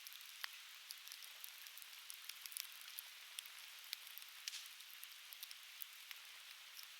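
Softwood fire crackling, with many irregular sharp pops and snaps over a steady faint hiss.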